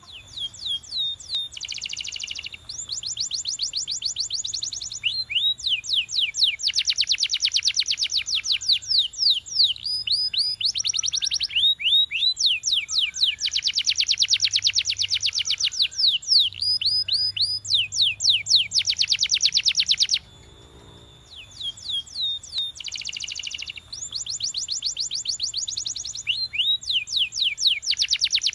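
Canary singing a long song of fast high trills and rolls, runs of rapidly repeated notes that change speed from phrase to phrase, with a brief pause about twenty seconds in.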